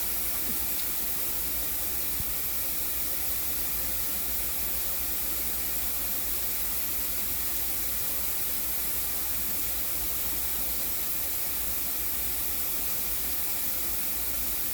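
Shower running with a fine, misty spray: a steady, even hiss of water that does not change.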